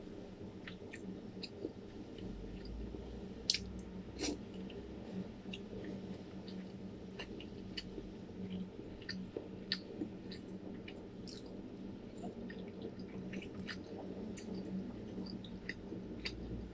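Close-up wet chewing and mouth smacking as a person eats soft, saucy noodle-like strips, with scattered small clicks and two sharper ones about three and a half and four seconds in, as a metal fork picks at food in a plastic tub.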